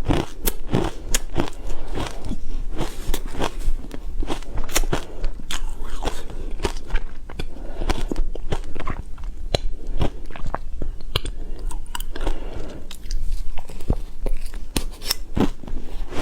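Ice being bitten and chewed: a dense, irregular run of sharp crunches and cracks as the pieces break between the teeth.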